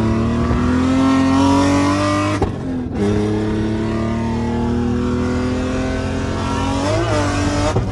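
LS V8 engine of a BMW E46 drift car pulling hard, its pitch climbing through a gear. About two and a half seconds in it drops out briefly for an upshift, then climbs again through the next gear, and the pitch wavers just before the sound cuts off.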